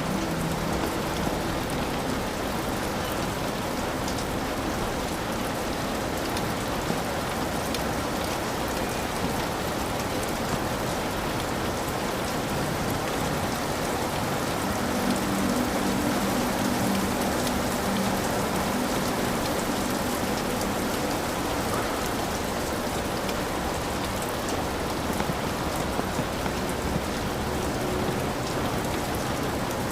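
Heavy rain falling steadily on a hut roof, with many small, sharp drop ticks through the hiss.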